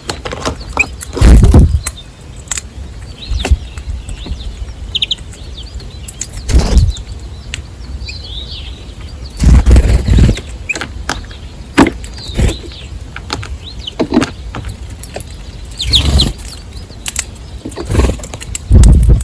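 Small birds chirping briefly now and then, among repeated loud, short thumps and rustles close to the microphone, about five of them, each lasting under a second.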